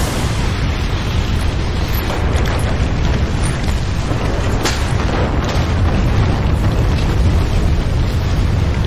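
Strong-earthquake sound effect: a loud, continuous deep rumble with a few sharp cracks over it, the clearest about halfway through.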